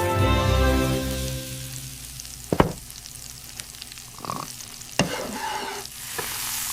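Food sizzling and frying in a hot pan, with two sharp clicks of utensils or cookware. A low, held tone fades out over the first two seconds.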